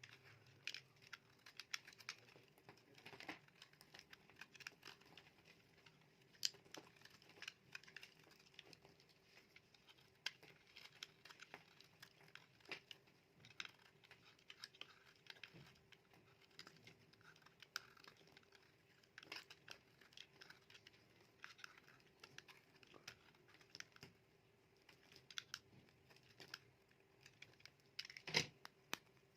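Knife cutting through a dry soap bar: faint, irregular crisp crackles and clicks, with a louder cluster near the end.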